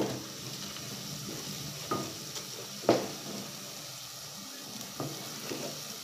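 Onions, ginger and garlic sizzling in hot oil in a pot. A stirring spoon knocks sharply against the pot a few times, loudest about three seconds in.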